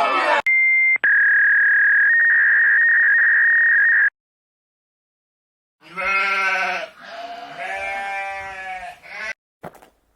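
A short electronic beep tone, then a steady beep held for about three seconds that cuts off sharply. After a silent pause comes bleating livestock: two calls, the second longer.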